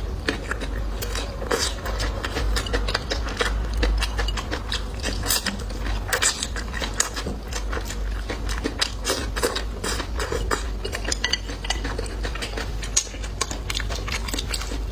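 Eating utensils clicking and tapping against bowls and plates during a meal, many short sharp clicks coming irregularly throughout.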